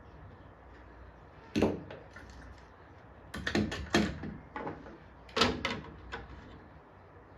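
Several sharp clicks and knocks from tools and the circuit board being handled on a workbench during capacitor replacement: one alone, then a quick cluster of four, then a few more spaced out.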